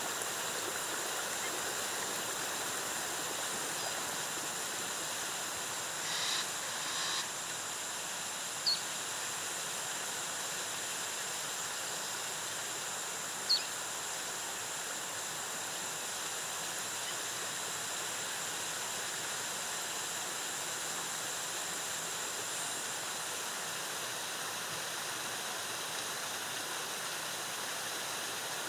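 Waterfall water falling steadily, with a thin steady high whine over it and a few brief high chirps in the first half.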